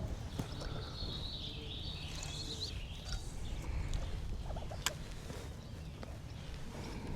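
Wind rumbling on the microphone out on choppy open water. For the first few seconds a wavering high-pitched sound runs over it, and there is a sharp click about five seconds in.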